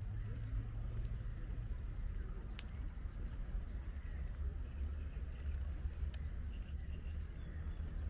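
A small bird calling in short phrases of three quick high falling notes, three phrases about three and a half seconds apart, over a steady low rumble.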